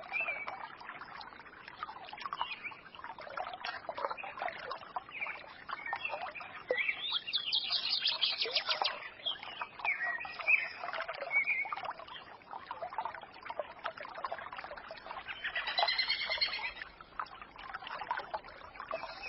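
Small forest stream trickling and babbling, with songbirds twittering and singing over it. The birdsong is loudest in a burst about seven to nine seconds in and again near the end.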